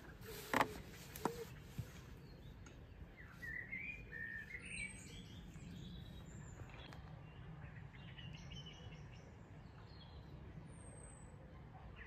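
Songbirds chirping and singing in short warbling phrases, with a couple of thin falling whistles, over a steady low background rumble. A single sharp knock sounds about half a second in.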